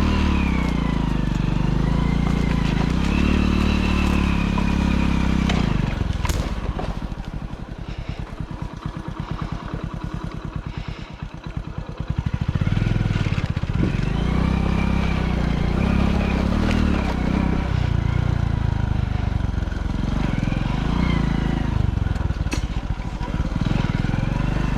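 Motorcycle engine running under way, its revs rising and falling; about seven seconds in it drops to a slower, quieter beat for around five seconds, then picks up again.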